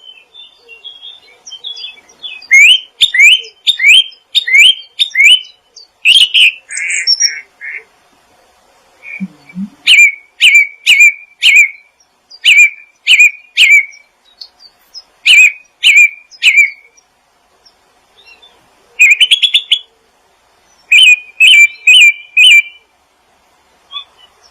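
A songbird singing in phrases of quick, repeated, sharp rising chirps, four to six notes per run, with short pauses between the runs.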